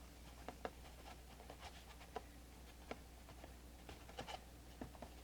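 Quiet room with a low steady hum and faint, irregular light clicks and taps from small objects being handled.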